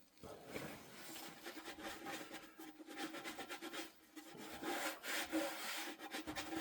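Irregular scraping and rubbing in many short strokes, a little louder near the end.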